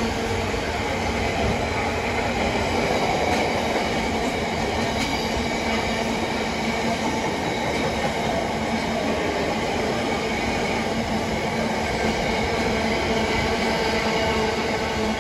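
Container freight wagons rolling past on the near track: a steady, continuous rumble of wagon wheels running on the rails.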